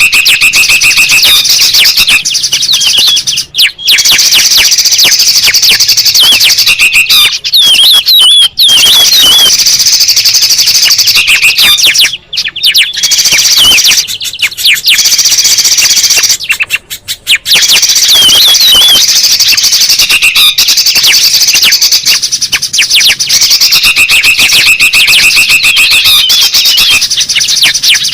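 Bird-lure recording of several bulbul and spiderhunter species calling at once: loud, dense, agitated chattering with quick warbled notes and a buzzy trill that recurs, with a few brief breaks.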